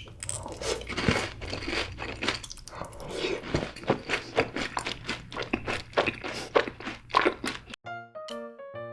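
Close-miked crunching and chewing of fried cheese balls, a dense run of crisp crackles and bites. About eight seconds in it cuts off abruptly and light keyboard music starts.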